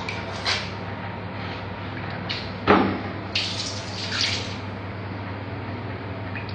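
Water from a tap splashing in short irregular gushes, with a single knock about three seconds in.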